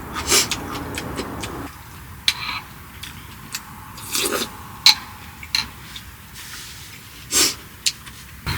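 A string of light clicks, taps and knocks with a few short rustles, like small objects being handled, over a low steady background hum that drops abruptly about two seconds in.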